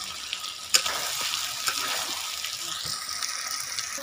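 Chicken and potato pieces sizzling in a pot of spiced curry as they are stirred, with a few sharp knocks against the pot, the loudest just under a second in. The meat is being dry-fried (kosha) in its masala before any water is added.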